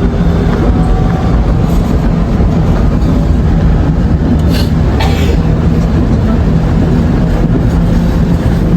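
Inside a moving subway train: a steady, loud rumble of the wheels on the track under a low, even hum, with a couple of sharp clicks about halfway through.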